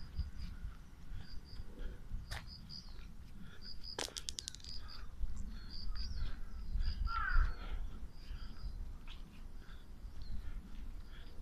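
A crow cawing, with small birds chirping steadily in the background. About four seconds in comes a quick run of sharp clicks, and a low rumble underlies it all, loudest around a thump about seven seconds in.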